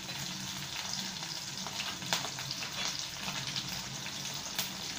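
Chicken pieces with ginger, garlic and green chillies frying in oil in a non-stick pan: a steady sizzle with a few faint crackles.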